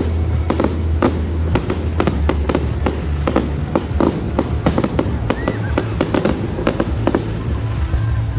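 Aerial fireworks bursting in quick, irregular succession, a dense run of bangs and crackles with a brief whistle about five seconds in.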